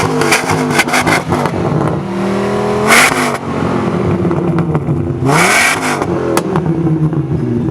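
Sports car engine revved hard twice, each time sweeping up to a peak and dropping back to idle, with a run of sharp crackles in the first second and a half as the revs fall.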